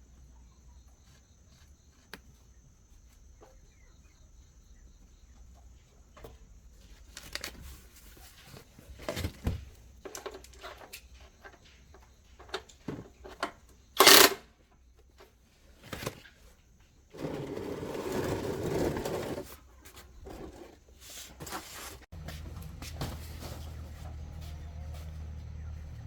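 Work sounds on the truck: scattered knocks and clicks, one sharp loud knock about halfway through, a burst of hissing noise lasting a couple of seconds, and a low steady hum that starts near the end.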